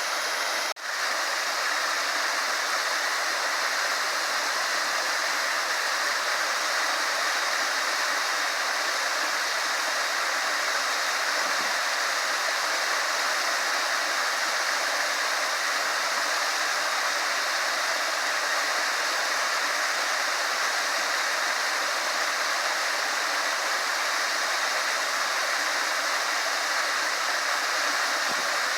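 Small waterfall pouring steadily, an even rush of water, with a brief dropout about a second in.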